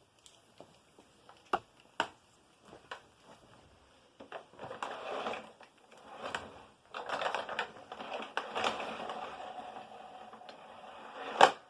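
Handling noise from an upright vacuum cleaner and its power cord: a few sharp clicks, then stretches of rustling and scraping, and one loud click near the end.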